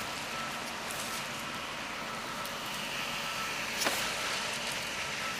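Bucket truck's engine running steadily, with one sharp click about four seconds in.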